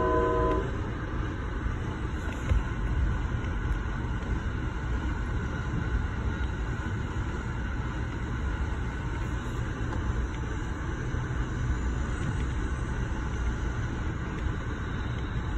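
Steady rumble of an Amtrak passenger car rolling along the track, heard from inside the coach, with a single sharp knock about two and a half seconds in. The last of a multi-tone train horn chord cuts off about half a second in.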